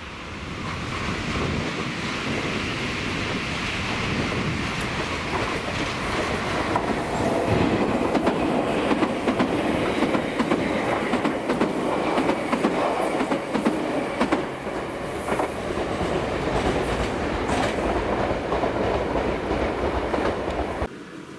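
Meitetsu electric commuter train passing close by, its wheels clacking over the rail joints. The sound builds over the first few seconds, is loudest in the middle as the cars go by, and cuts off suddenly near the end.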